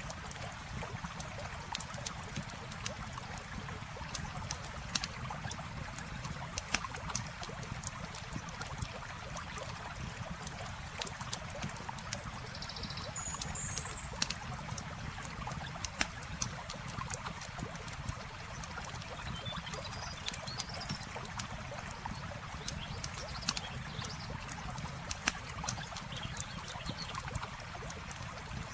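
Campfire crackling with many sharp pops over the steady rush of a flowing river. Brief faint high chirps come twice near the middle.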